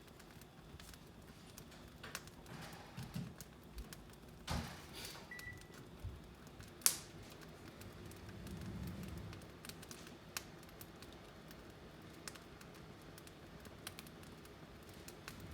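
Wood fire crackling in a fireplace, with scattered sharp snaps and pops over a low background. The loudest pop comes about seven seconds in.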